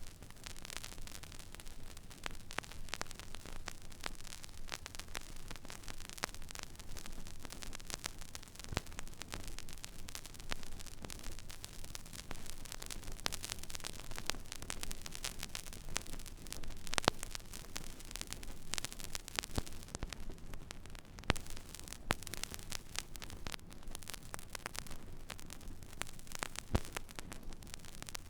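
Stylus riding an empty vinyl record groove: steady surface hiss with dense crackle, a few louder pops and a low hum underneath.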